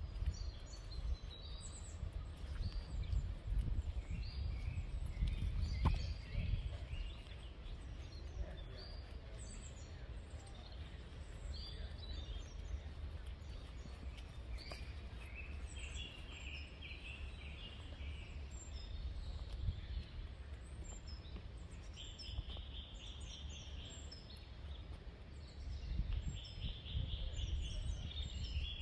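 Several small songbirds singing and calling, with repeated chirps and high trills that grow busier in the second half. A steady low rumble runs underneath.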